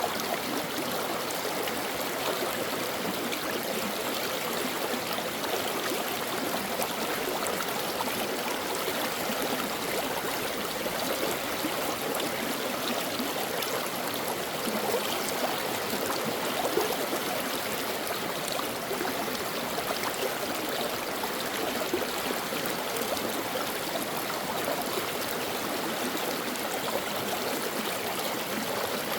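Stream water flowing steadily over rocks, a continuous burbling and trickling rush with small splashes.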